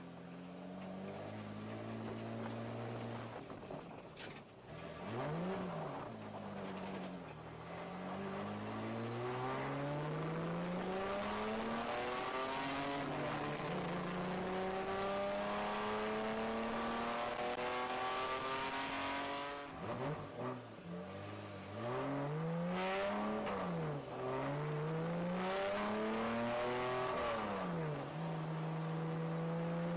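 BMW E30 race car's engine heard from inside the cabin: low revs at first, then a rev blip, then long pulls rising through the gears as the car accelerates. Near the end the revs drop and are blipped up and down several times before settling to a steady note.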